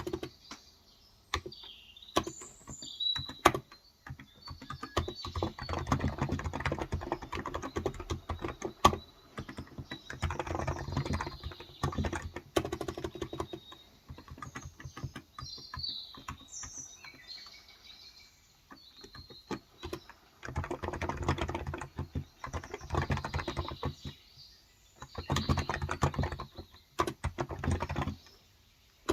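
Typing in bursts on a Cox Endeavor electro-capacitive (contactless) 35 g tenkeyless keyboard, runs of rapid keystrokes broken by pauses. Birds chirp in the background, about two seconds in and again around fifteen seconds.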